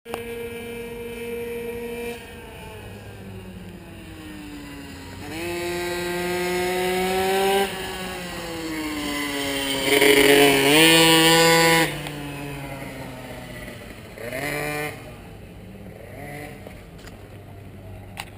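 Racing vehicle engine revving hard and easing off several times. Its pitch climbs steadily under acceleration, then drops suddenly when the throttle lifts or a gear changes. It is loudest about halfway through, with a short sharp click near the end.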